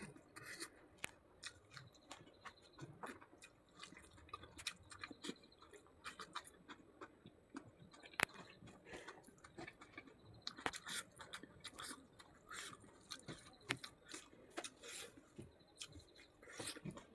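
Close-up chewing and eating sounds: wet mouth smacks and soft crunches of pork, with irregular small clicks throughout and one sharp click about eight seconds in.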